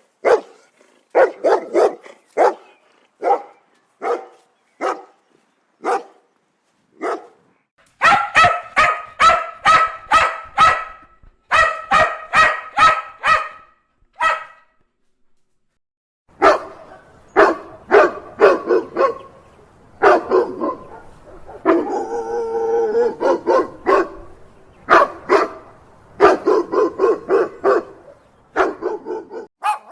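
Dogs barking. First come single barks spaced about a second apart. Then there is a fast run of higher-pitched barks, about three a second, a brief pause, and more barking with a drawn-out pitched call mixed in.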